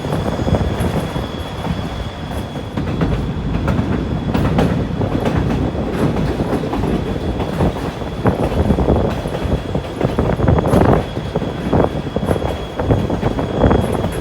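Tour train heard from aboard a passenger car, running steadily with a continuous rumble and irregular clacking of the wheels over the rail joints, with a thin steady high squeal from the wheels.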